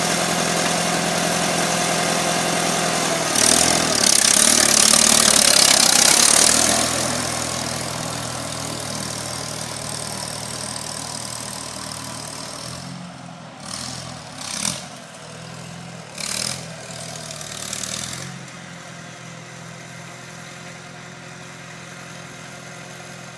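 Tractor engine running, surging loud about three and a half seconds in, then fading slowly as it pulls away. A few short bursts of hiss come near the middle.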